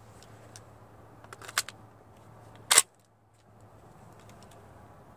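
Small metallic clicks and clacks from handling a PTR 9CT MP5-clone 9mm carbine while clearing a misfeed with a live round in the action, with a sharper clack a little before the middle.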